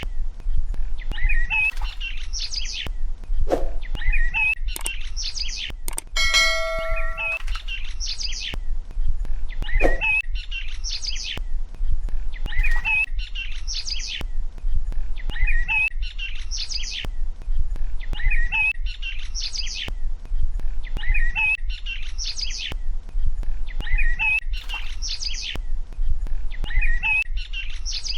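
Bird chirping, the same short phrase repeating about every two seconds, over a steady low hum. About six seconds in, a ringing, bell-like ding lasts about a second.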